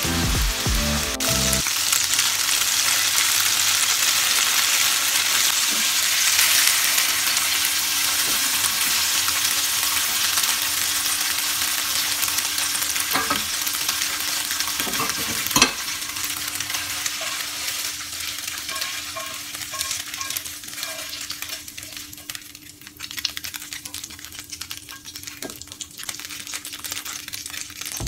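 Crumbled tofu sizzling in hot oil in a nonstick frying pan while it is stirred with a spatula. The sizzle is dense at first and thins to sparser crackling in the second half, with a sharp knock about halfway through.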